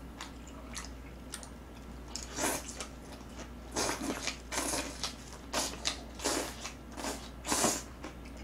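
Close-miked chewing of a mouthful of boiled pork with green onion kimchi (pa-kimchi). The wet chews come about one to two a second, starting about two seconds in.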